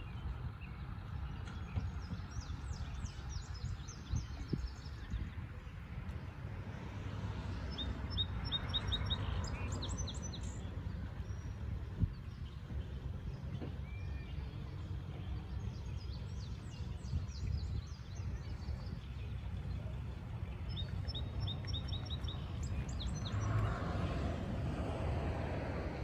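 Outdoor ambience of small birds chirping, with two quick runs of short high notes, one about a third of the way in and one toward the end, over a steady low rumble.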